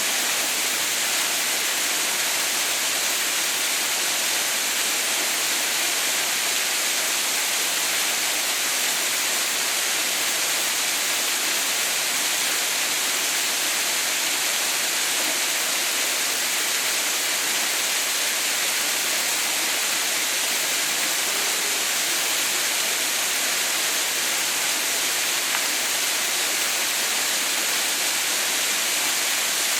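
Waterfall rushing: a steady, even hiss of falling water with no breaks or changes.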